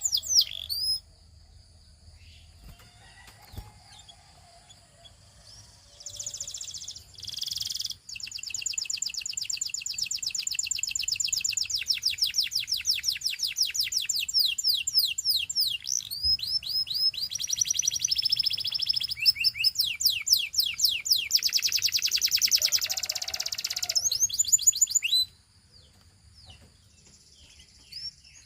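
Belgian singing canary in song: long runs of fast, evenly repeated high notes and rolling trills, changing from one phrase to the next. It starts after a few quiet seconds and stops a few seconds before the end.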